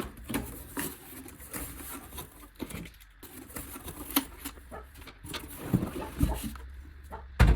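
Irregular handling noise: a run of small clicks and rustles with a few dull knocks, and one loud thump near the end.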